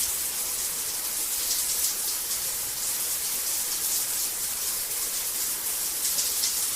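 Running water, a steady hissing spray that cuts off abruptly just after the end.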